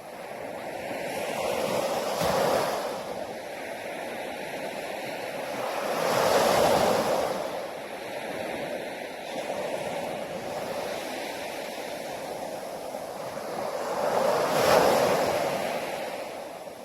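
Sea waves breaking and washing on a shore, three swells of surf that build and fall away, the loudest near the end.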